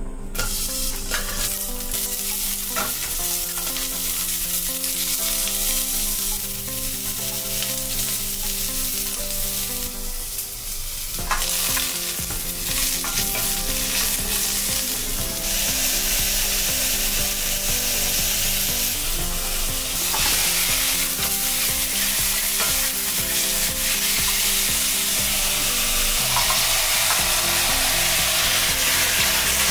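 Sliced onion and maitake mushrooms frying and sizzling in a stainless-steel pot while being stirred with a spatula. The sizzle grows louder about halfway through.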